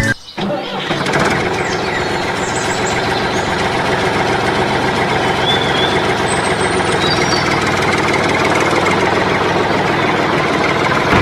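An engine running steadily at an even level, starting about half a second in.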